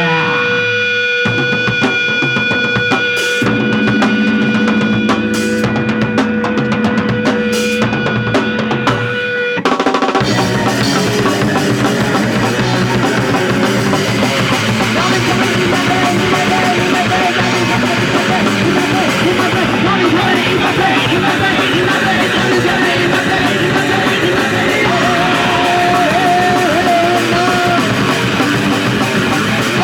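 Punk rock band playing live: a sparse intro of drum hits under a steady held guitar tone, with a bass note joining a few seconds in, then the whole band comes in loud with distorted guitars and drums about ten seconds in.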